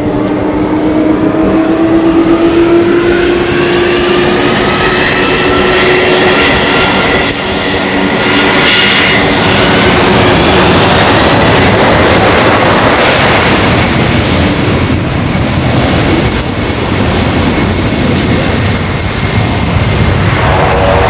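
Jet airliner engines running loud: a steady roar, with a whine that rises in pitch over the first several seconds.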